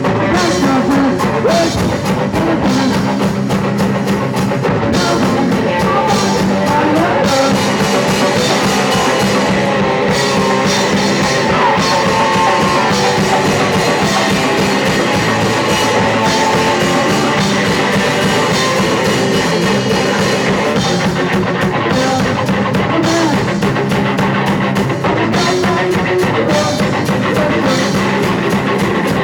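A punk rock band playing live, loud and without a break: distorted electric guitar over a pounding drum kit.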